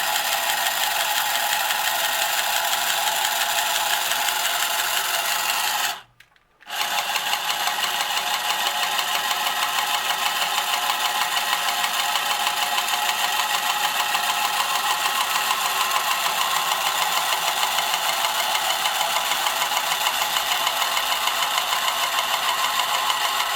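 Small electric motor and gear train of a 1965 Marx Moon Scout tin toy helicopter running, spinning its rotors and driving its wheels, with a steady rattly buzz. It stops for about half a second around six seconds in, then starts again.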